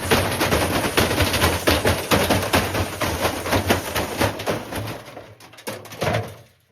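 Bricks banging around inside a running washing machine drum: rapid, repeated knocks and clatter from the unbalanced load battering the machine. The knocking dies away near the end and cuts off.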